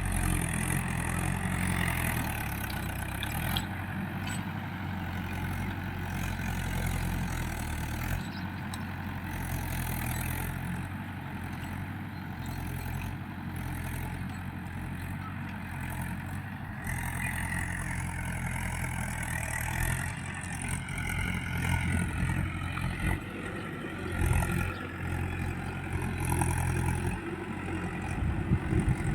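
Swaraj tractor's diesel engine running steadily while ploughing a field, growing rougher and more uneven in the last ten seconds or so.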